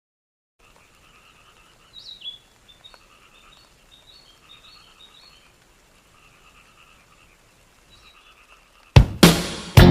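Faint chorus of frogs calling, with a run of sharper chirping calls from about two to five seconds in. Loud guitar rock music cuts in about nine seconds in.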